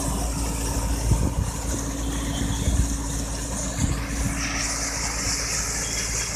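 Tractor engine running steadily at idle while driving a lift-irrigation pump, with a low rumble, a steady hum and a few dull thumps. About four seconds in, a high hiss shifts and grows louder.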